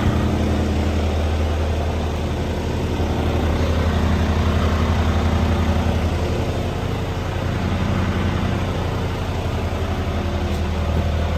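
Heavy diesel truck engine running steadily with an even, low firing pulse.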